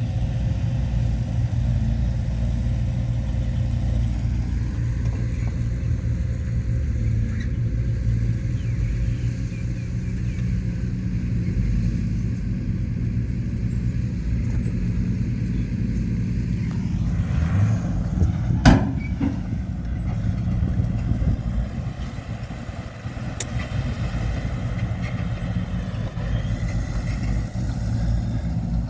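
Heavy earthmoving machinery, bulldozer and dump truck diesel engines, running steadily with a low rumble. A single sharp metallic clank stands out about two-thirds of the way through.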